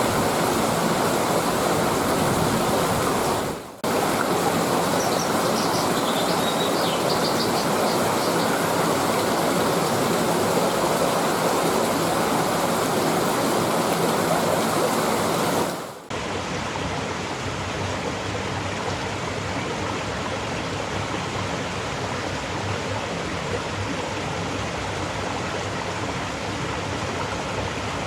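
Rushing stream water, a steady loud noise that drops out briefly about four seconds in and again about sixteen seconds in, a little quieter after the second. Faint high bird chirps a few seconds in.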